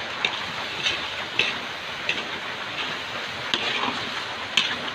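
Grated santol mixture sizzling in a metal wok over a wood fire as it is cooked down until dry, a steady hiss. A metal spoon stirring it scrapes and knocks against the wok about seven times.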